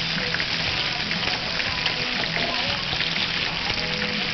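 Walleye fillets frying in a skillet: a steady sizzle with many small crackling pops.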